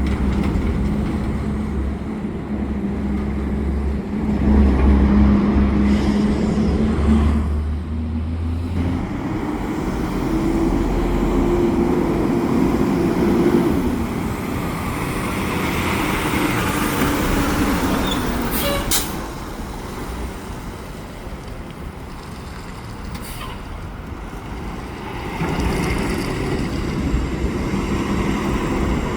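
Heavy diesel garbage truck engines running and moving past. There are short air-brake hisses about two-thirds of the way through.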